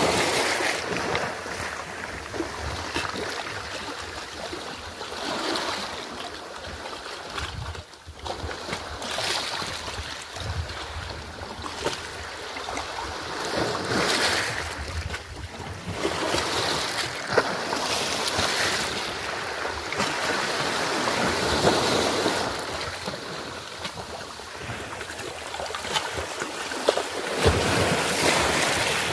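Sea waves washing in and breaking on the shore, the surf swelling and easing every few seconds, with wind on the microphone.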